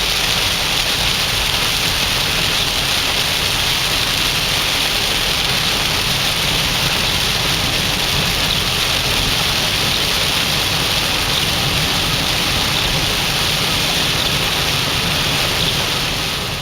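Heavy rain falling on a moving car: a steady hiss of rain with a low rumble of tyres on the wet road underneath, fading a little near the end.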